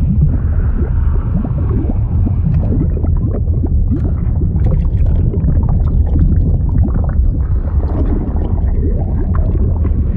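Water sound effect for a fluid animation: a deep, steady rumble with continuous bubbling and gurgling over it.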